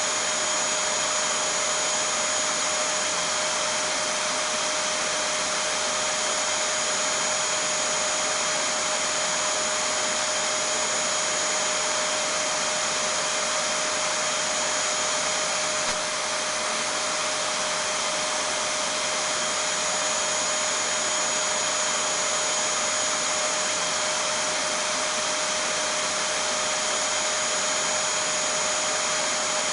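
A vacuum cleaner (hoover) running continuously at a constant speed: an even motor whine over a hiss, used as soothing white noise for a baby. A faint click about halfway through.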